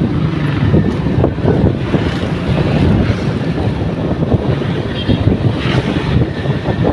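Wind buffeting the microphone, loud and continuous, over a low steady drone.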